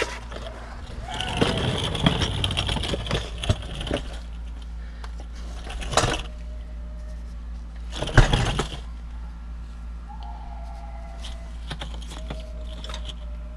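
Loose metal debris from a blown BMW N55 engine's oil pan clinking and rattling as it is handled. The pieces include bearing fragments and what the owner takes for parts of a piston. A dense clatter runs from about a second in for a few seconds, then single knocks come around six seconds and, loudest, just after eight.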